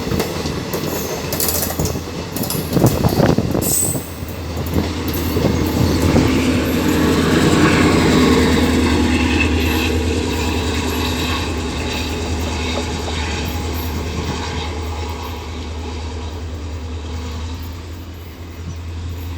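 Diesel-electric multiple unit (DEMU) train pulling away, its wheels clattering over rail joints for the first few seconds. A steady hum then builds, loudest about eight seconds in, and slowly fades as the train draws off.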